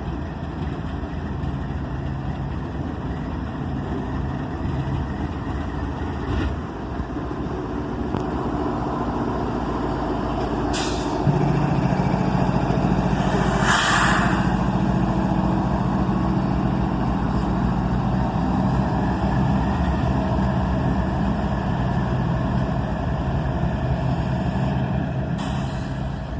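A long freight train rolls past with a steady rumble of wheels on rail. About eleven seconds in, a mid-train distributed power locomotive, a GE ES44 diesel, arrives and its engine drones steadily as it passes. A short hissing burst comes a few seconds after it arrives.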